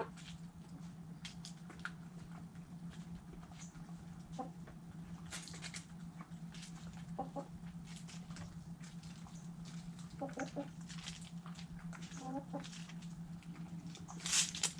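Chickens pecking at food scraps, with many quick tapping pecks and a soft low cluck every few seconds. A steady low hum runs underneath, and a louder scratchy rustle comes near the end.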